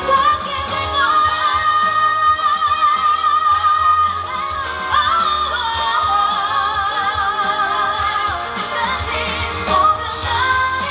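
Female pop vocalist singing live over a backing track, holding long high notes with vibrato.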